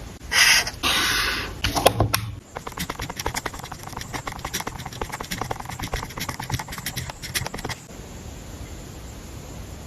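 Paper crafting sounds: two brief rasps of paper being rubbed or slid about in the first second and a half, then a long run of quick light clicks and taps from paper and stationery being handled, which stops about eight seconds in and leaves a faint steady hiss.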